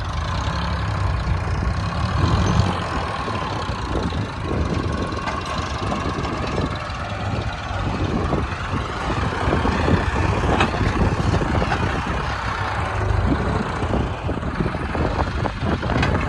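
Heavy diesel engine running steadily under load, with scattered clanks and knocks from machinery working.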